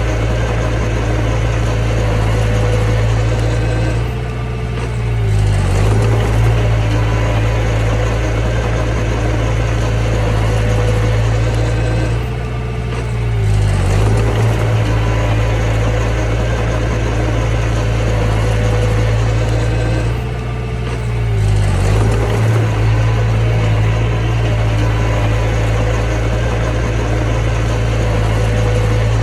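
Mini bulldozer's diesel engine running steadily with a strong low hum. About every eight seconds it dips briefly and its pitch shifts, then it settles again.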